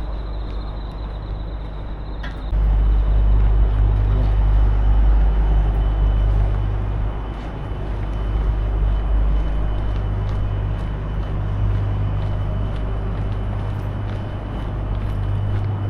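Low, steady engine drone that grows louder about two and a half seconds in and holds, with a faint, thin high whine over it.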